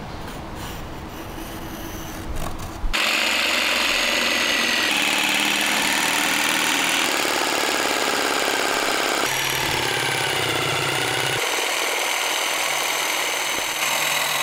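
Rubbing and scratching on metal for about three seconds, then a small electric power tool starts suddenly and runs steadily with a high motor whine. Its tone shifts abruptly about every two seconds.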